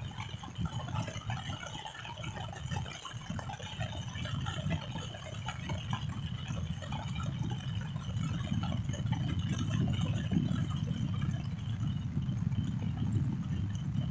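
Rain falling with scattered drops and splashes over a steady low rumble, gradually getting a little louder.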